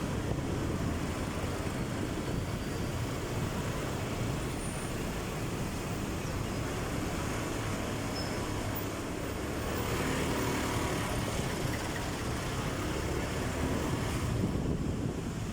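Steady road noise of a moving vehicle, an even rushing without a clear engine note, swelling slightly about ten seconds in.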